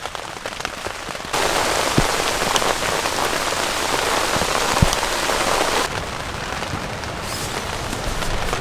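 Steady rain falling, louder and hissier for a few seconds in the middle, with a couple of sharp single drip taps.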